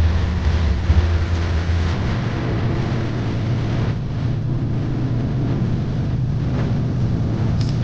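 A heavy engine running steadily with a low hum, which shifts to a slightly higher pitch about two seconds in.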